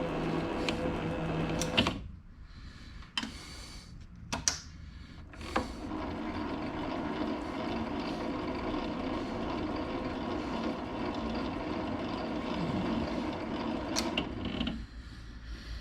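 Metal lathe running steadily during a cut, then stopping about two seconds in; a few sharp clicks follow, and it runs steadily again from about six seconds until shortly before the end.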